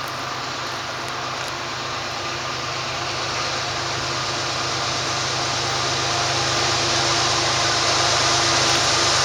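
Diesel freight locomotive approaching: a steady engine and train rumble with a few held tones, growing slowly louder.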